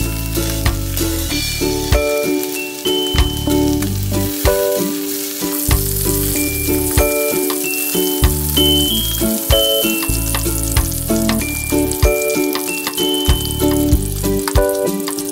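Meat-wrapped rice balls sizzling as they fry in oil in a pan. Background music with a bass line and melody plays throughout.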